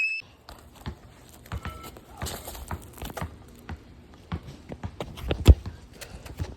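Running footsteps on hard ground: irregular taps and scuffs, with one louder thump about five and a half seconds in.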